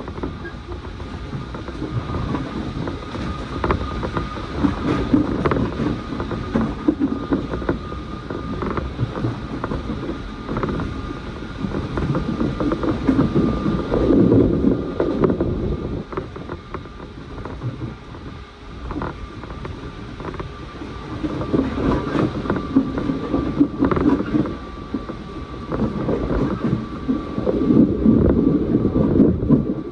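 Train running between stations, heard from inside the passenger car: a low rumble of wheels on rails that swells and fades, with frequent clicks over the track and a faint steady high whine.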